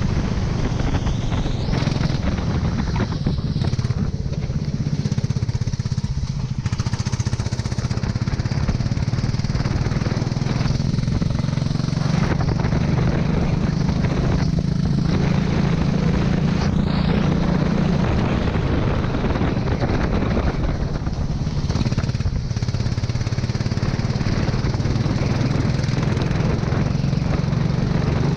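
Go-kart engine running continuously under way on a wet track, with a steady hiss of wind and spray over the engine note.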